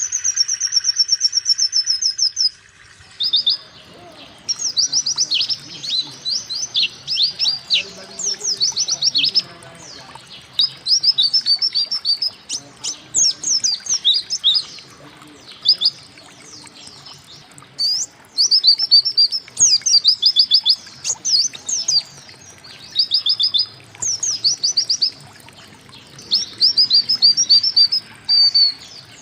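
White-eye (pleci) singing in quick bursts of high twittering notes, each phrase a second or two long with short pauses between. It opens with a long, slightly falling trill.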